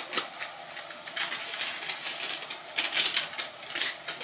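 Vegetable lumpia filling frying in a pan and being stirred with a utensil: a sizzle with several short scraping strokes against the pan.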